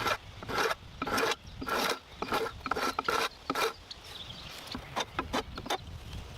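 Rough rasping strokes of a hand tool working wood, about two a second, giving way to lighter, quicker clicks and scrapes near the end.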